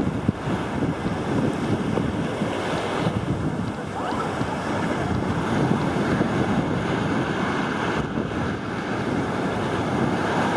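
Wind buffeting the phone's microphone over the steady wash of ocean surf.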